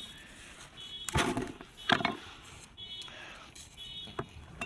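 Dry dead twigs and plant stalks crackling and snapping as they are handled, loudest about a second in and again near two seconds. Short, high beeps repeat roughly once a second throughout.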